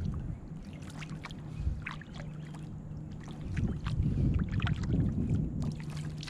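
Kayak paddling: small water splashes and drips from the paddle over a steady low rumble, which grows louder about halfway through.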